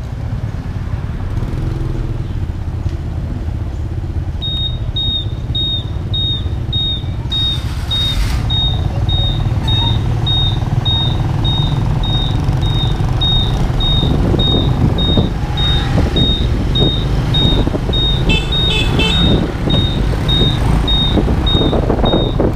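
A motorbike riding along, its engine and wind noise making a steady low rumble that grows slowly louder. From a few seconds in, a short high beep repeats about twice a second.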